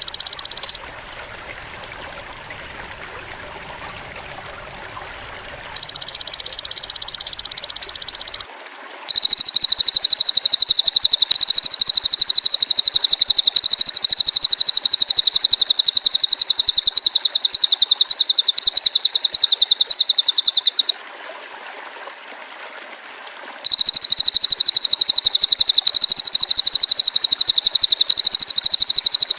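Masteran recording of cililin bird and golden-grasshopper (belalang emas) song: loud, very high, fast-pulsing buzzing trills. A short trill opens it and a second comes about six seconds in; two long, higher trills run from about nine seconds in, with a quiet gap of a couple of seconds between them.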